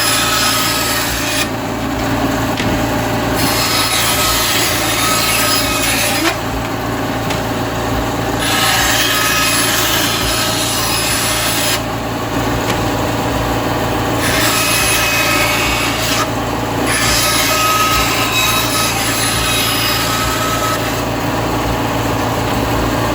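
Kydex sheet being cut or ground by a shop tool, a rasping that comes in passes of a few seconds with short breaks between them, over a steady low hum.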